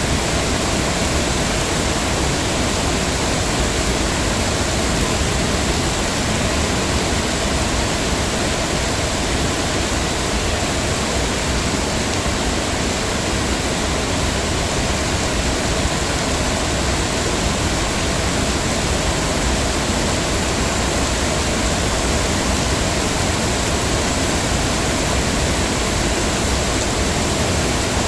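Heavy rain falling in a steady, dense hiss, with no individual drops or other events standing out.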